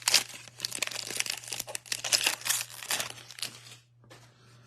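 Trading-card pack's foil wrapper being torn open and crinkled: a dense crackling that dies down about a second before the end.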